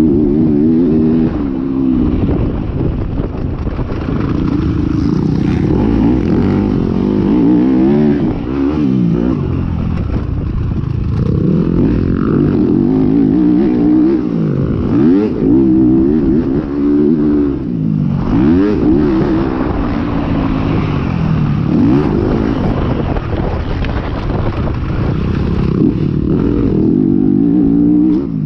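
Motocross bike engine racing on track, revving up and dropping again and again as it accelerates, shifts and backs off for jumps and corners.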